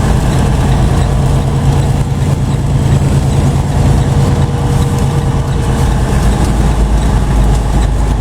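Heavy truck's diesel engine running steadily under a continuous drone of road noise, heard from inside the cab.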